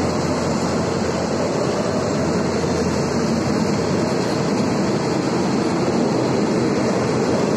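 Passenger coaches of a train rolling past close by along the platform: a steady noise of wheels running on the rails.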